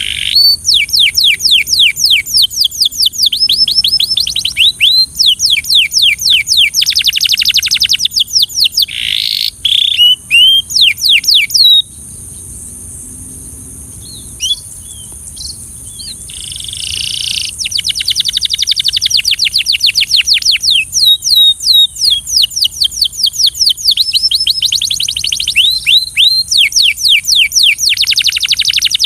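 Canary singing in fast trills of rapidly repeated high notes, each roll lasting a second or two and changing speed from one roll to the next. The song breaks off for a few seconds about halfway, with only a few scattered notes and a short buzzy note, then the trills start again.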